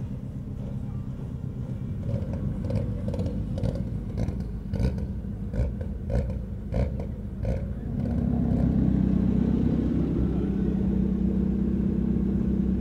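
Rally car engine running, heard from inside the cabin. Between about 2 and 7.5 seconds there is a run of short, sharp sounds, and from about 8 seconds in the engine note becomes louder and steady.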